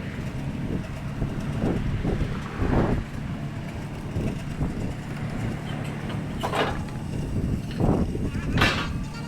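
A vehicle engine running steadily at idle, heard muffled, with a few sharp knocks and clanks. The loudest knocks come about six and a half seconds in and again near the end.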